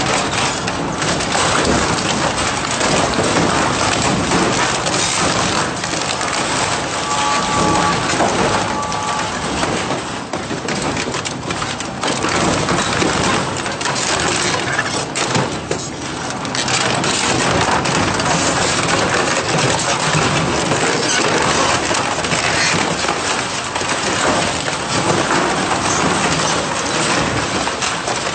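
Industrial scrap-metal shredder tearing metal apart: a loud, unbroken crunching and crackling with many small snaps. Two short beeps sound about seven seconds in.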